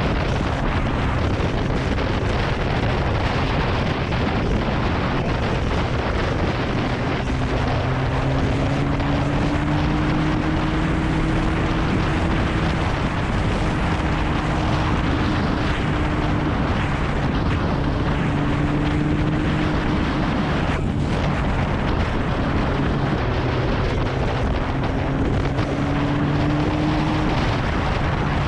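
Kawasaki ZX-9R inline-four engine running under way, its pitch slowly rising and falling a few times, with heavy wind buffeting on the helmet-mounted action camera's microphone.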